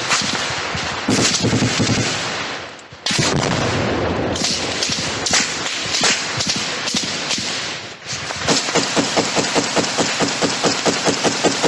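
Automatic gunfire, shots fired in fast strings with brief breaks. About eight and a half seconds in it settles into a steady run of about six shots a second.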